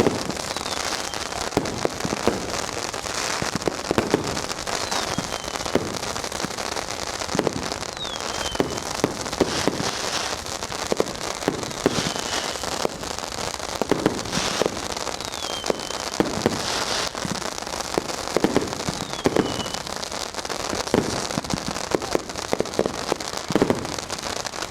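Dense, continuous crackling of many firecrackers and fireworks going off at once, with louder bangs every second or two and a short falling whistle every few seconds.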